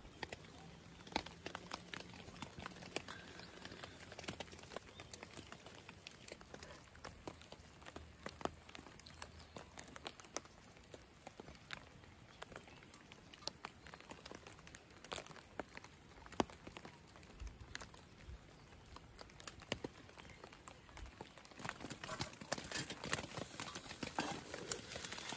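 Raindrops tapping irregularly on wet fabric, a sparse scatter of small sharp ticks. Near the end a denser run of rustling and scraping sets in.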